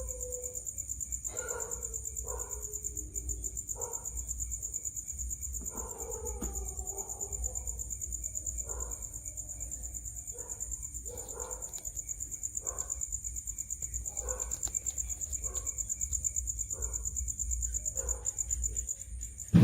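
A cricket trilling: a continuous, high-pitched, finely pulsing chirp. Behind it, short lower sounds come about once a second.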